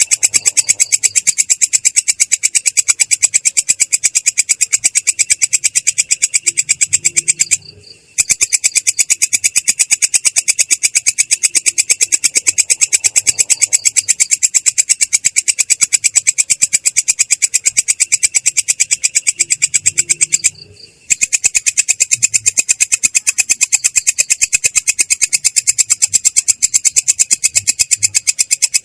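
Belalang kecek insect trilling in an unbroken, very rapid rolling buzz, high-pitched and clear but rough, stopping briefly twice before rolling on.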